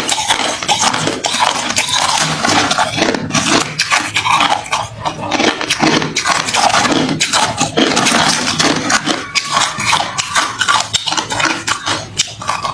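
Close-miked chewing of hard, refrozen crushed ice: a dense, irregular run of sharp crunches and cracks as mouthful after mouthful is bitten through.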